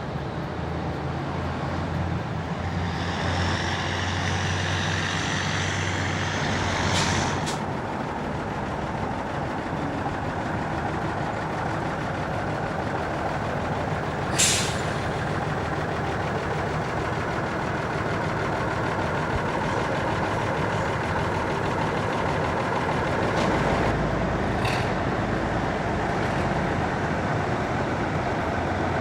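Truck engines running steadily, with a short sharp hiss of air brakes about halfway through and fainter hisses early and late.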